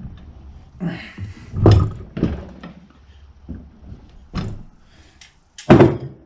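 A handful of dull knocks and thuds from metal parts and tools being handled during a mower caster bearing job, about five in all, with the loudest near the start and near the end.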